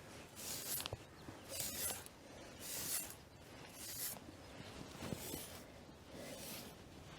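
Highland cow eating, with a crunching bite or chew about once a second.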